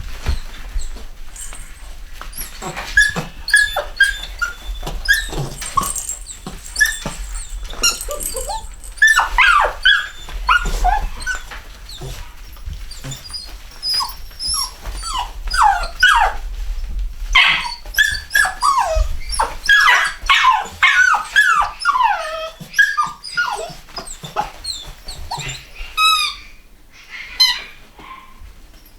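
Young cockapoo puppies whimpering and squealing: many short high-pitched cries, most sliding down in pitch, coming thick and fast through the middle.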